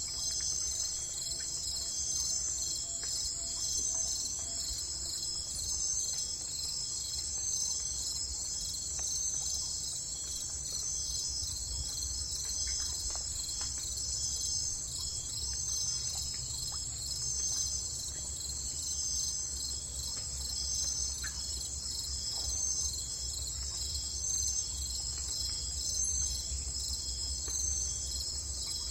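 A steady, unbroken chorus of insects, likely crickets, chirping high in pitch, with a pulsing trill that swells about once a second. A low rumble runs underneath.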